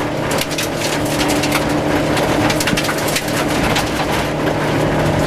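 Rover 214 rally car's 1.4-litre K-series four-cylinder engine running at fairly steady revs, heard from inside the cabin at speed on a gravel stage. Over it comes a constant crackle of gravel and stones hitting the car's underside.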